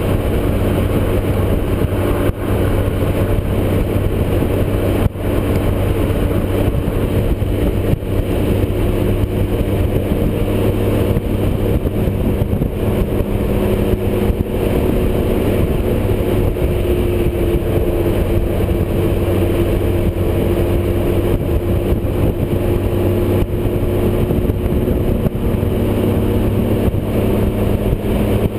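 Motorcycle engine running steadily at cruising speed, with a heavy rush of wind noise; the engine note rises and falls slightly partway through.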